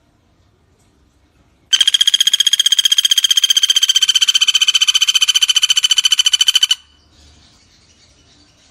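Pelatuk bawang woodpecker calling: one loud, fast rattling trill of rapid repeated notes, starting about two seconds in and lasting about five seconds before cutting off.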